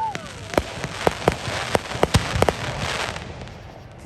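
Fireworks going off: a string of sharp cracks and pops over a dense crackle, which thins out near the end.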